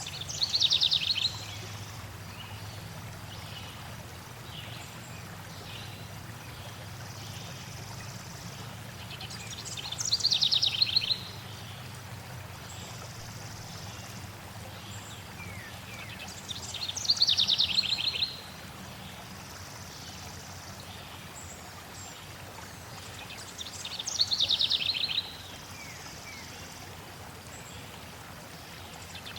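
Flowing water running steadily, with a songbird singing over it: a rapid run of high notes lasting about a second and a half, heard four times several seconds apart.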